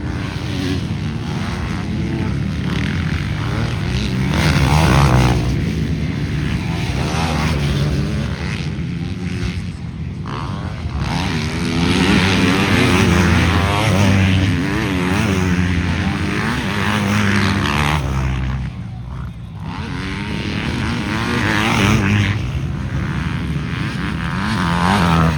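Motocross motorcycle engines racing round the track, revving up and down with gear changes as bikes pass. The loudest passes come about five seconds in and again around twelve to fourteen seconds, with a brief dip just before the twentieth second.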